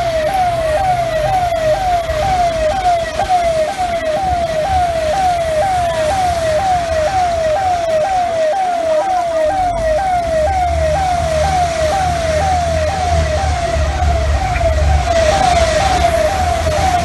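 Electronic emergency-vehicle siren sounding a rapid falling wail that repeats about twice a second, over the low rumble of a vehicle engine.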